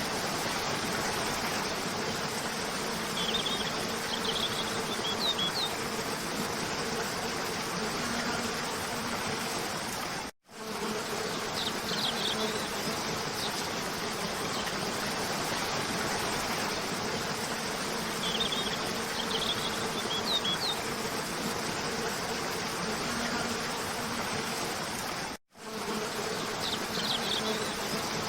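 Steady rush of a cascade waterfall with short high bird chirps in small clusters every several seconds. The sound cuts out twice for a moment, about 10 and 25 seconds in, where the looped recording restarts, and the same pattern repeats each time.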